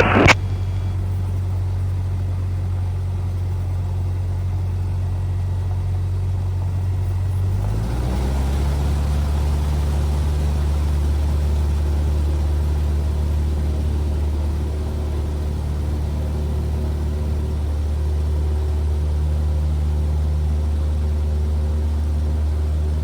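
Cessna 172R's four-cylinder Lycoming IO-360 engine and propeller running steadily, heard from the cockpit; about eight seconds in the engine note shifts and settles into a new steady drone, as power is brought up for the takeoff.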